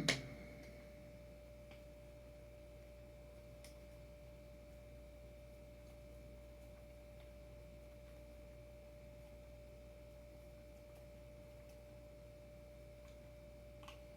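Quiet room with a faint, steady single-pitched tone over a low hum. A brief loud sound comes at the very start, and faint clicks come a few seconds in and near the end.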